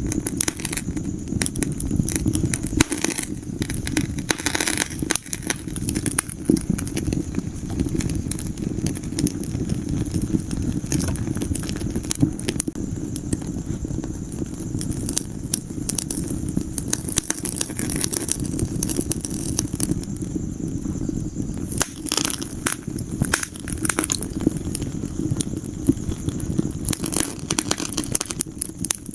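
Wood fire burning in a fireplace: a steady low rustle of flames under frequent sharp crackles and pops from the burning logs, coming in clusters at a few points.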